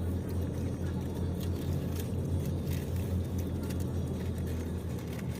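Steady low rumble inside the cabin of a Toyota Innova 2.8 with its 2.8-litre diesel engine running.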